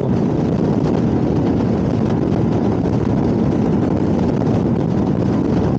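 Royal Enfield Himalayan motorcycle cruising at about 65 mph: a steady engine drone mixed with wind and road rush.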